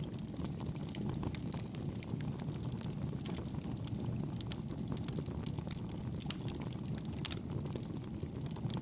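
Wood campfire burning, with frequent small sharp crackles and pops over a low steady rumble.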